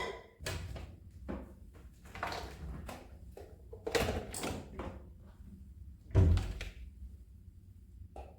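Household handling sounds indoors: a run of knocks, clatters and rustles, with a heavier thump about six seconds in.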